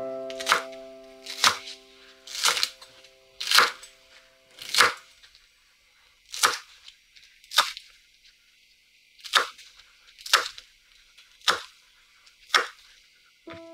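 A series of eleven sharp cracks or snaps, roughly one a second with a few longer gaps, while held musical notes fade out in the first few seconds.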